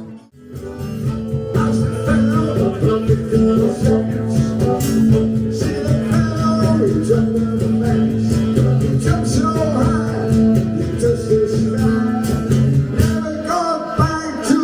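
Live guitar music with sustained notes and steady plucked strokes. The sound drops out briefly right at the start, then runs evenly.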